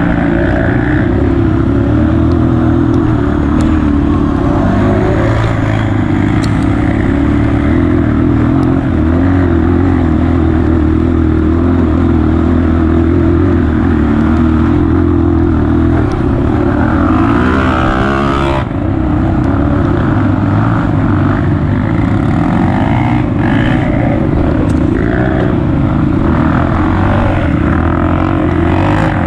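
Honda CRF230F trail bike's air-cooled single-cylinder four-stroke engine running loud and steady under way, with a brief drop in level about two-thirds of the way through.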